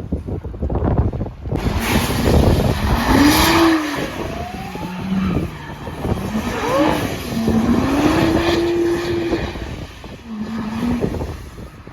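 Car doing a burnout: the engine revs up and falls back several times, held high for a couple of seconds in the middle, over the hiss of spinning tyres.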